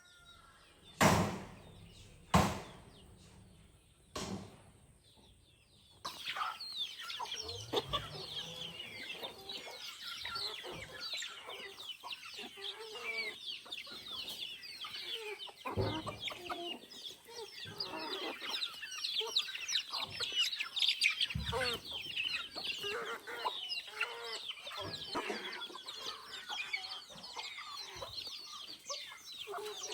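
Three sharp knocks in the first few seconds. Then, from about six seconds in, many chickens clucking at once in a dense, continuous chatter.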